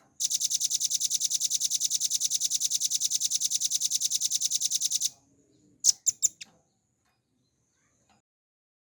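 Velvet-fronted nuthatch giving a rapid, even, high trill of about a dozen notes a second for about five seconds, the drilling 'ngebren' song. About a second later it gives three or four sharp short notes.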